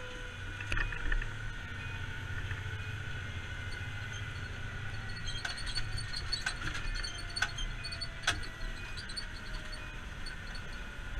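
A vehicle engine running steadily, with a constant high whine over the low hum and a few scattered clicks and knocks.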